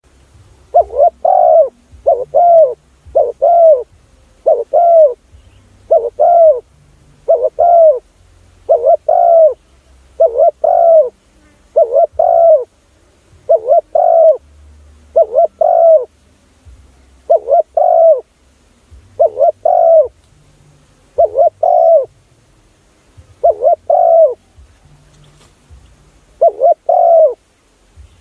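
Spotted dove cooing: loud short coos in quick groups of two or three, the groups repeating about every one and a half to two seconds, used as a lure call to draw in wild spotted doves.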